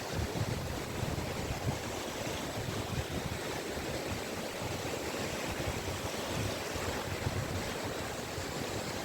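Sea waves washing onto a beach: a steady hiss of surf, with irregular low rumbles of wind buffeting the microphone.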